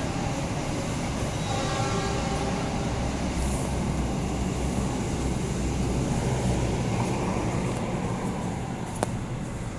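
Passenger train's wheels rolling on the rails as the coaches run past and away, a steady rumble and clatter. A single sharp click sounds near the end.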